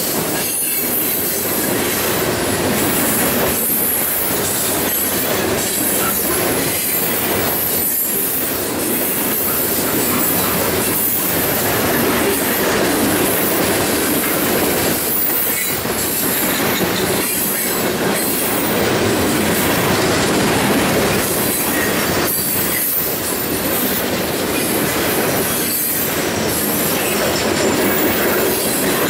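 Ore hopper cars of a long freight train rolling past, their steel wheels clattering on the rails in a loud, steady stream of noise.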